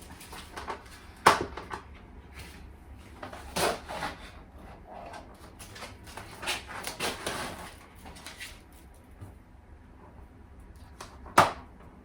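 Items being pulled off and handled at a refrigerator: scattered sharp knocks and clatters with rustling in between. The loudest knocks come about a second in and near the end.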